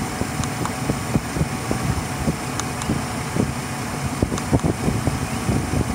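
GM Vortec engine idling in the open engine bay: a steady running sound with uneven low pulses.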